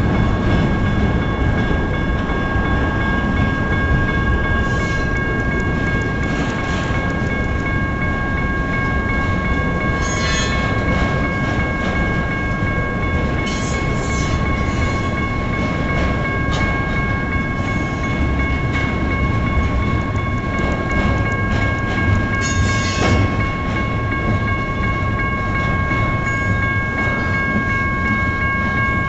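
Double-stack intermodal freight train rolling past: a steady rumble of cars with rail clatter, and a few brief louder clanks. Over it, the crossing's General Signals type 1 electronic bell keeps ringing at a steady pitch.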